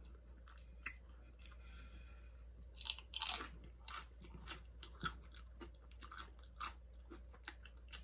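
Close mouth sounds of a person biting and chewing crunchy nacho tortilla chips: a run of crisp crackling crunches, loudest about three seconds in.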